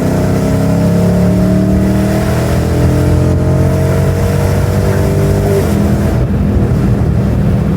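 Dodge Charger's 5.7-litre Hemi V8 under steady acceleration, its note rising slowly, then falling away about five and a half seconds in, over road noise.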